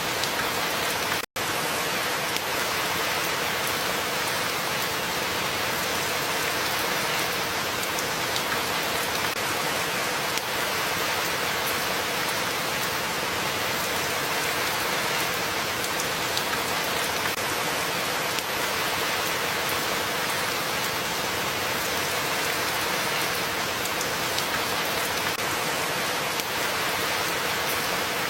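Steady, even rain falling, a continuous hiss with fine drop detail. About a second in it cuts out to silence for an instant and resumes at once.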